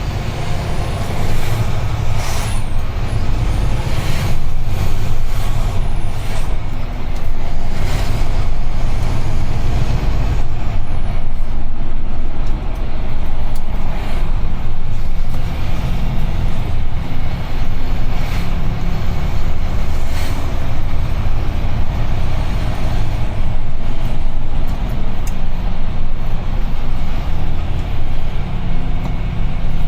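UD Trucks Quon heavy truck driving, heard from the cab: a steady low engine drone and road noise, with a scattering of short knocks or clicks at irregular moments.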